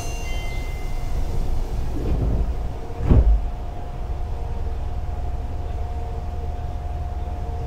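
Fukuoka City Subway 1000N series train standing at the platform, its equipment giving a steady hum. A few short high beeps at the start, then a loud sliding-door thump about three seconds in.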